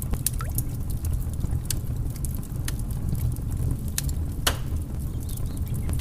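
Wood fire crackling in a fireplace: scattered sharp snaps and pops over a low steady rumble, with one louder pop about four and a half seconds in.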